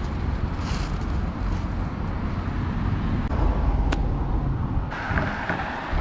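Outdoor street ambience: a steady low rumble of road traffic, with a single sharp click about four seconds in.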